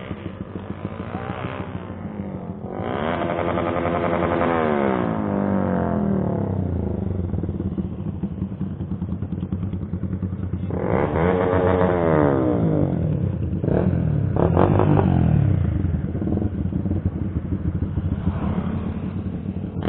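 Motorcycle engine running under way, its pitch sweeping up and down twice as the revs change.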